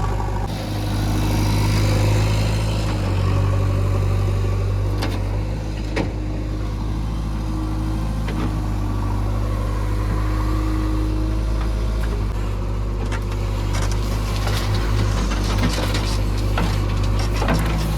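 JCB 3DX backhoe loader's diesel engine running steadily at working speed, with occasional sharp knocks and clanks from the digging and loading.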